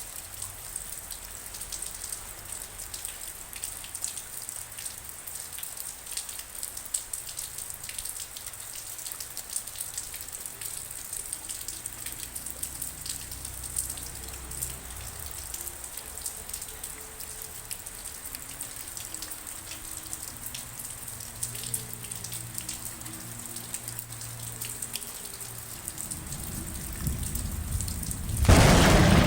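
Steady rain with individual drops ticking close by. A loud clap of thunder breaks in just before the end.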